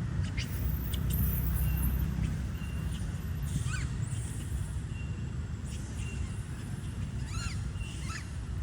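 A few short, high, arching squeaky calls, typical of a young monkey, over a low rumble of wind or handling noise, with a few brief clicks early on.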